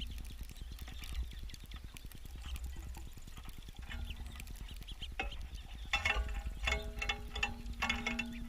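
Quick, irregular clicking and tapping of small birds landing on and pecking at a bird feeder right beside the camera, over a low rumble of wind buffeting the camera housing.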